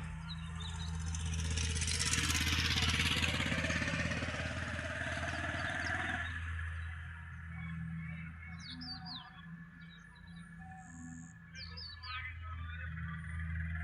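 A motor vehicle passes close by: a rush of noise with a rising whine that swells and then cuts off about six seconds in. After it, small birds chirp in short, high, downward-sweeping notes in a few clusters. A steady low hum runs underneath.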